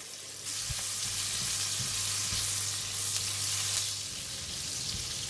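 Salted fish, garlic and red bird's eye chillies sizzling in hot oil in a nonstick wok, stirred with a spatula. The sizzle gets louder about half a second in as the chillies go into the oil.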